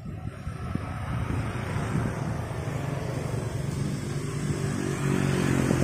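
Wind noise on the microphone of a moving bicycle, with a motor vehicle's engine growing louder over the last couple of seconds as it comes close.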